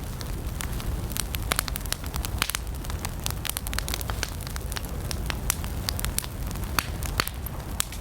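Campfire of burning wood crackling: a steady low rumble of flames with many irregular sharp pops and snaps, a few louder ones scattered through.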